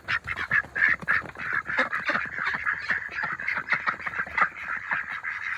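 A flock of domestic ducks quacking, many short calls overlapping in a continuous chatter.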